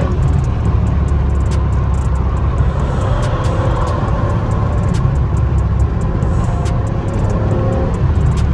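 Straight-piped BMW E60 M5's 5.0-litre V10 exhaust running on the move with a loud, deep, steady rumble, broken by scattered sharp clicks.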